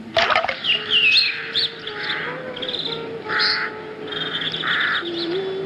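Birds calling: high chirps and warbles, and three harsh caws about a second apart, over a steady low drone.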